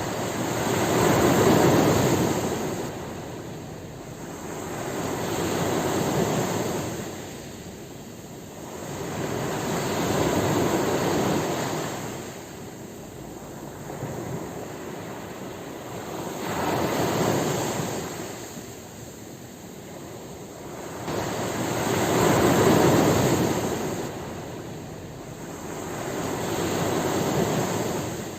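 Ocean waves breaking and washing up the shore, each surge rising and falling away. There are about six waves, one every four to six seconds.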